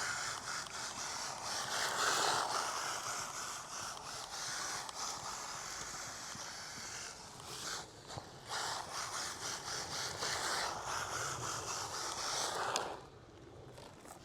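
Brushless electric motor of a 1:14-scale MJX Hyper Go RC rally car whining, its pitch rising and falling with the throttle, over the scrape of its small tyres on the ground as it races. The sound drops away about thirteen seconds in.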